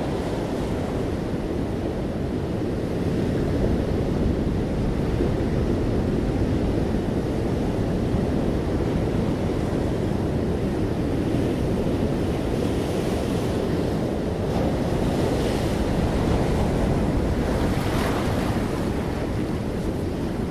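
Ocean waves breaking and washing on a beach in a continuous low surf, with a few swells of brighter hiss in the second half.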